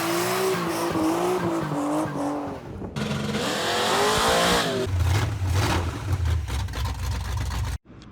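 Loud motor vehicle engine in three short cut-together clips: revving with a wavering, rising pitch, then a deep pulsing rumble from about five seconds in. Each clip cuts off suddenly.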